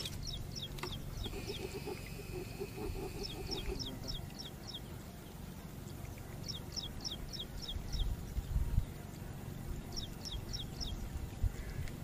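A bird calling in four bursts of quick, high chirps, each burst lasting about a second. A lower, rapid pulsing call runs for about two seconds near the start.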